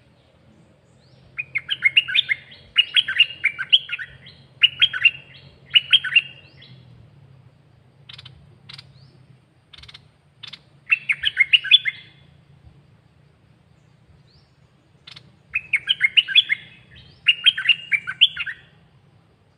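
Caged songbird singing: short phrases of quick, bright notes, repeated several times with pauses, and a few single sharp call notes in between. A faint low hum lies underneath.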